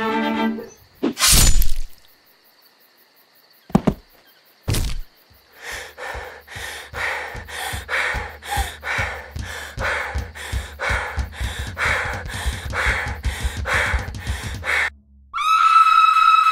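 A few loud, separate thuds and knocks, then a steady run of thuds about three a second for roughly nine seconds. A gliding, distorted electric guitar comes in near the end.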